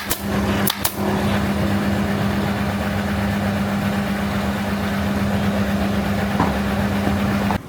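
A steady machine hum with one strong low tone, after a few sharp clicks at the start; it cuts off abruptly near the end.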